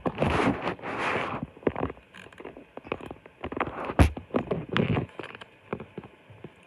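Rain, with irregular drops knocking close to the microphone. A hiss of heavier rain fades out about a second and a half in, and one louder knock comes about four seconds in.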